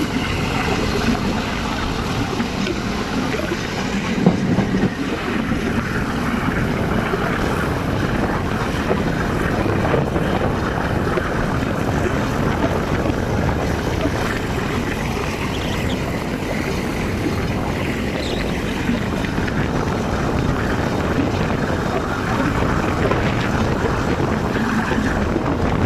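Steady running noise of a moving passenger train, with wind buffeting the microphone.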